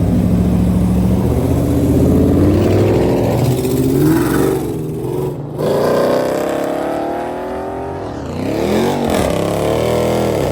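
A loud car engine revving, its pitch climbing and falling several times, with a short break about five seconds in and another dip and rise near the end.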